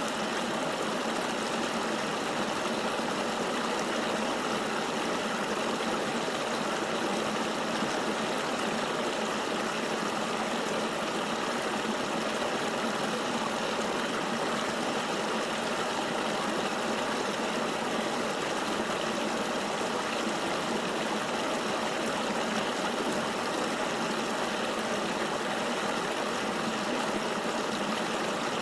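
River water flowing steadily: an even, unbroken rushing with little low rumble.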